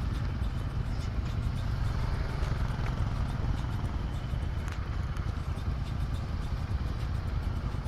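Motorcycle engines running at low speed as the bikes are ridden into a line, a steady low rumble.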